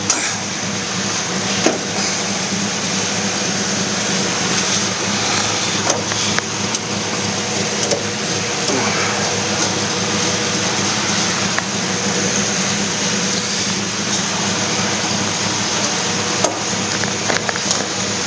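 The 1969 Pontiac Firebird's 428 V8 idling steadily through full-length headers and a 40-series Flowmaster exhaust, with a few faint clicks scattered through.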